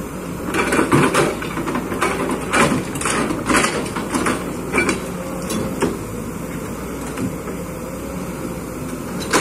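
Kobelco excavator's engine running steadily, with a quick series of sharp clanks and scrapes from the working machine during the first six seconds.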